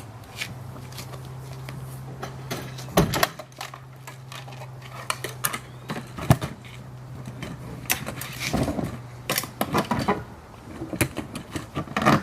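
Scattered clicks, knocks and clatter of a Porta-Bote folding boat being assembled by hand, with sharp knocks about three and six seconds in and busier clatter near the end. A steady low hum runs underneath and stops near the end.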